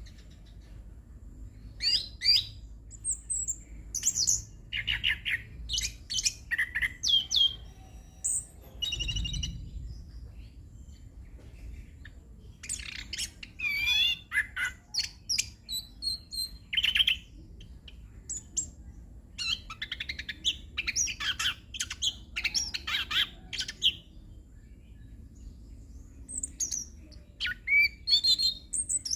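Chestnut-capped thrush (anis kembang) singing a long, varied rolling song of quick whistled and chattering phrases, in three bouts with short pauses between, over a faint low hum.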